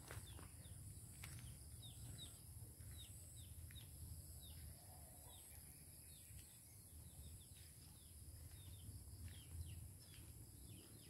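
Faint rural ambience: a bird giving many short, high chirps, each falling in pitch, over a low rumble.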